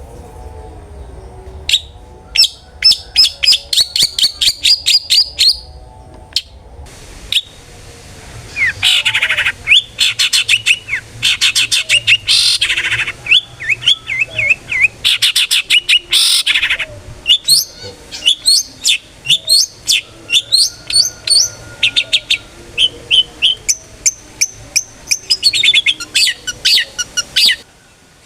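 A long-tailed shrike (cendet) singing loudly in fast bursts of sharp, repeated notes and rattling trills, with short pauses between bursts; the song stops shortly before the end.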